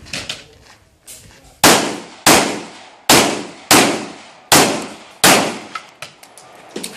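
Six pistol shots fired in a steady string, roughly two-thirds of a second apart, each a sharp crack with a short ringing tail.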